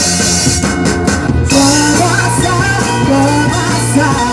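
Live band playing an ethnic-style arrangement of a pop-rock song in an instrumental passage between sung lines; about a second and a half in, the band shifts into a new section with a different bass line.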